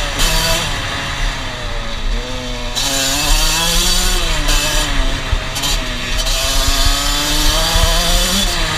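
Small off-road engine running under throttle, its buzzy note rising and falling as the revs change, over a low rumble.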